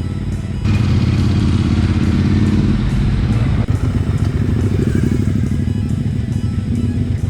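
Cruiser motorcycle engine running, with a pulsing low exhaust note that gets louder about a second in, under background music.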